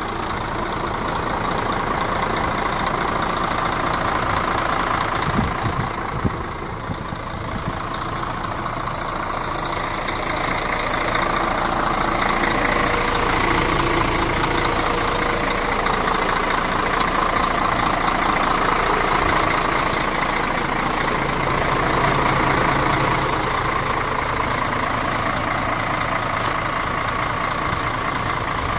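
Mercedes-Benz Axor 1840 tractor unit's diesel engine idling steadily.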